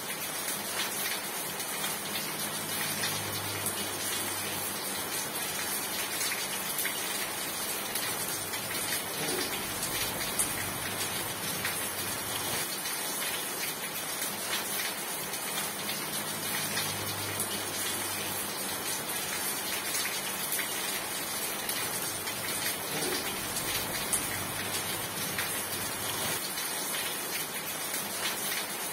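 Steady rain falling, an even dense hiss with scattered drop ticks. A faint low hum comes and goes underneath.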